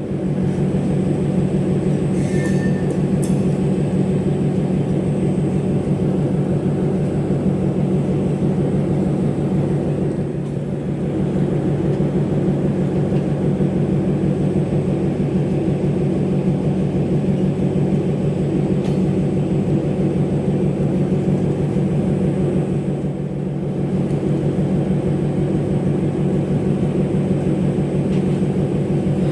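Indian Railways diesel locomotive engine running steadily with a loud, even hum. The level dips slightly about ten seconds in and again around 23 seconds.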